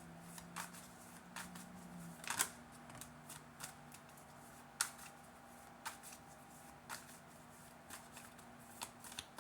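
A deck of tarot cards being shuffled and handled by hand: irregular soft flicks and slaps of the cards, a few sharper than the rest, over a faint steady hum.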